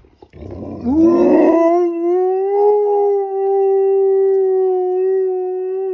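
Dog howling: one long howl that starts rough and breathy, rises a little in pitch about a second in, then holds a steady note. The howl is set off by a fire truck's siren.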